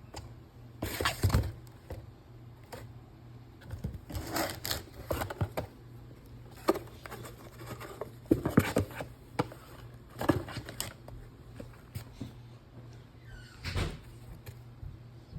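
A kitten playing in a box: irregular bursts of scratching, scuffling and light knocks as it scrabbles and bats about inside it, with short pauses between the bursts.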